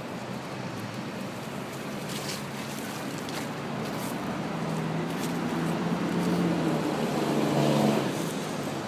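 City street traffic, with a motor vehicle's engine hum growing louder over several seconds and dropping away about eight seconds in.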